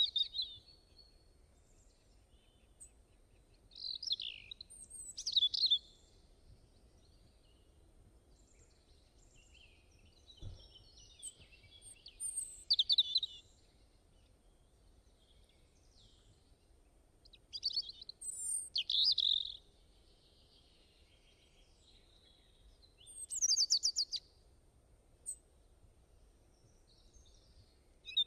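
Songbirds singing: short phrases of quick, high chirps and trills, repeated every few seconds with quiet gaps between.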